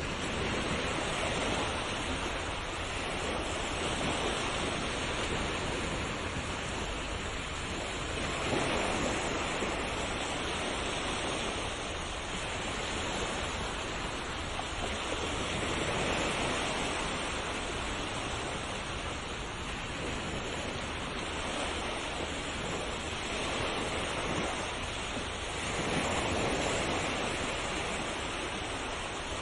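Ocean waves breaking and washing in, a continuous surf rush that swells and eases every several seconds.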